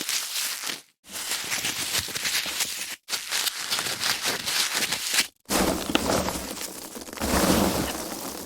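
Foam packaging being handled, a continuous dense noise of the foam being gripped and rubbed. It breaks off into silence for a moment three times, about one, three and five seconds in, and comes back fuller and louder after the last gap.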